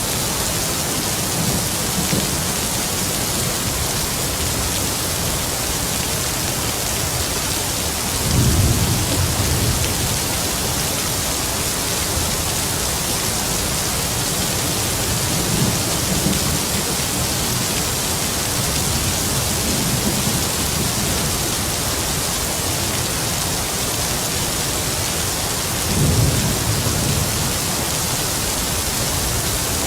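Heavy rain falling in a steady hiss, with distant thunder rumbling low several times; the loudest rolls come about a third of the way in and again near the end.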